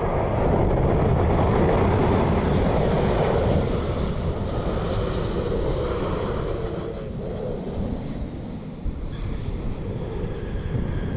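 Jet aircraft engines rumbling as a plane passes on approach, loudest in the first few seconds and then slowly fading, with strong wind buffeting the microphone.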